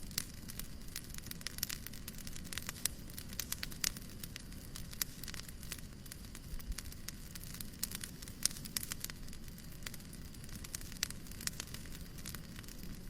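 Fireplace crackling: irregular sharp pops and snaps over a steady hiss of white noise.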